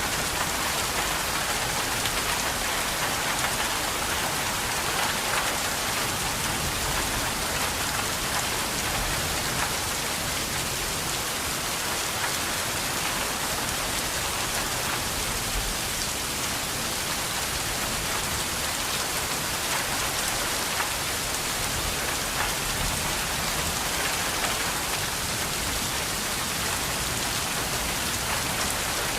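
Steady rain falling, an even hiss of rain on a surface with scattered individual drops ticking through it.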